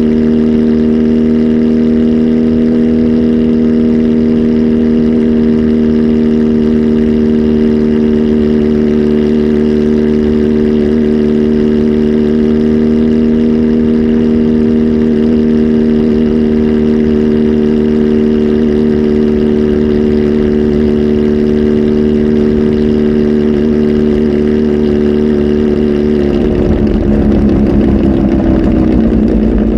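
Kawasaki Z H2 SE's supercharged inline-four, flash tuned with a full exhaust, running at steadily held revs. About 26 seconds in, the note wavers and turns rougher.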